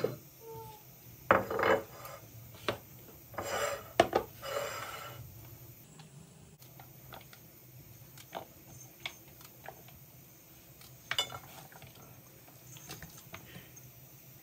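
Dishes and cutlery clattering and clinking as they are handled. The sounds are busiest in the first few seconds, then thin out to occasional light clicks, with one more clatter about eleven seconds in.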